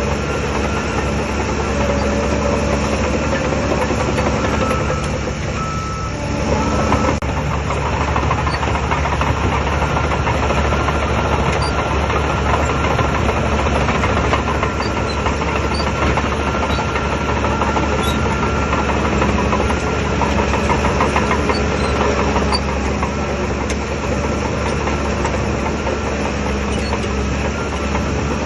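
Heavy diesel engine of a Shantui DH17 C3 bulldozer running steadily under work, with a thin steady whine over it. It eases off briefly about five seconds in and picks back up a second or two later.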